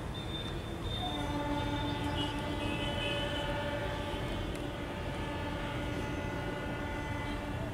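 Indian Railways EMU local train sounding a long, steady horn over the low rumble of trains running on the tracks.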